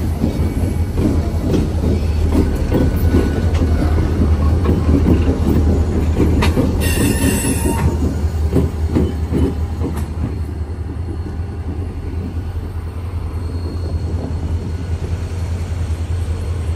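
Freight train rolling past, wheels clattering over the rail joints over a steady low rumble. A high wheel squeal lasts about a second, roughly seven seconds in. The sound eases off slowly toward the end.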